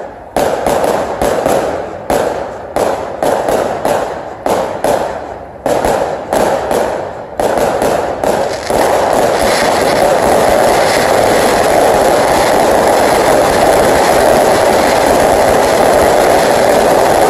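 Fireworks display: aerial shells bang in quick succession, about three a second, then from about eight seconds in the explosions run together into a continuous loud din, the dense barrage of the show's finale.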